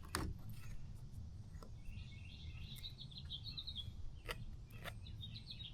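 Bird song: quick series of short high chirps about two seconds in and again near the end, over a low steady hum, with a few sharp clicks.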